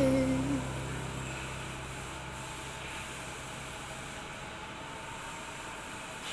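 A held note of background music fades out at the start, then a steady hiss from a TIG welding torch.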